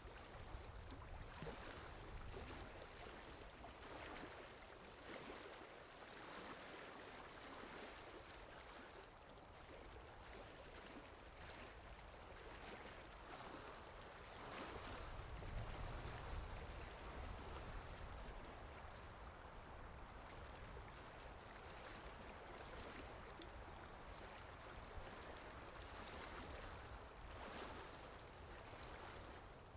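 Steady, soft rain falling, an even hiss of many drops, with a low rumble swelling for a few seconds in the middle.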